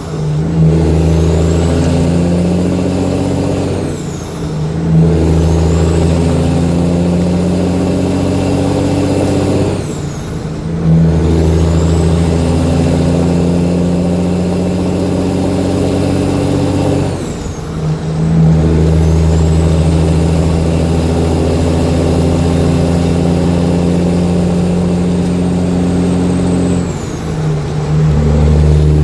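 Caterpillar C15 6NZ truck diesel running through 7-inch straight pipes and pulling through the gears of a 13-speed transmission. A loud, steady drone is broken by a short dip at each of four shifts. At every shift a high whistle falls away and then climbs again.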